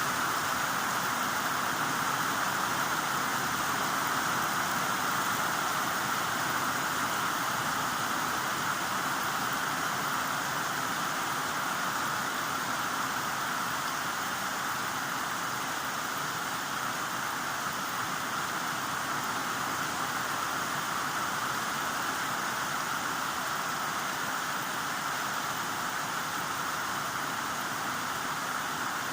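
Heavy rain falling, a steady, even hiss with no distinct drops or thunder.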